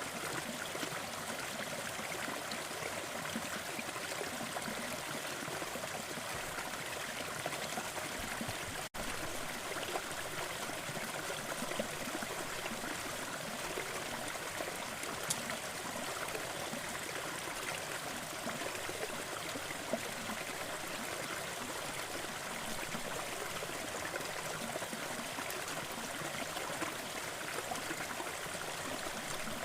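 Small forest waterfall: water falling and splashing in a steady, even rush with trickling, broken by a split-second dropout about nine seconds in.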